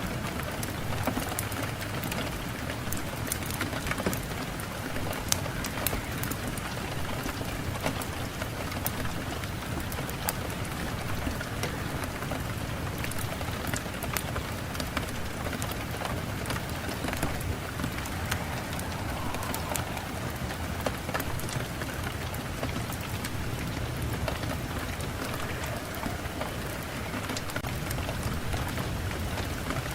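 Steady rain falling, an even hiss with many individual drops ticking sharply through it.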